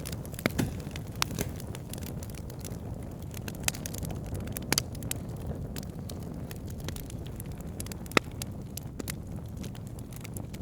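Fireplace fire crackling: scattered sharp pops and snaps over a steady low rumble, the loudest pop about eight seconds in.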